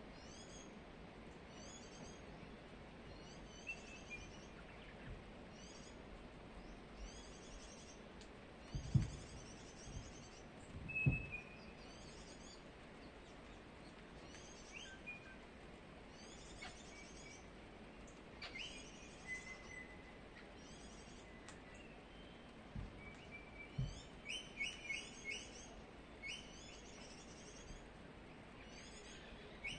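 A parrot chirping softly over and over, with short whistled notes in between and a quick run of notes near the end. Two dull thumps, the loudest sounds here, come about a third of the way through.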